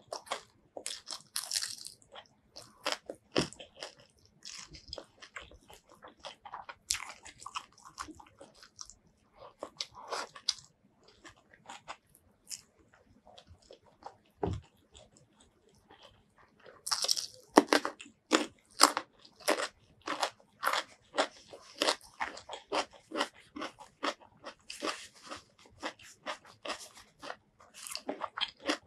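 Close-miked chewing and crunching of food, biting into fried chicken: scattered crisp crunches in the first half, then a fast run of louder crunches from a little past halfway, as a raw radish is bitten and chewed.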